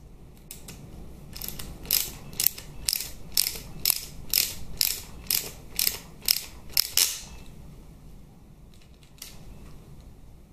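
Hand ratchet clicking in a run of short back-and-forth strokes, about two a second for some six seconds, then a few faint clicks near the end. It is undoing the Allen head screws that hold the oil pan to the gearbox housing.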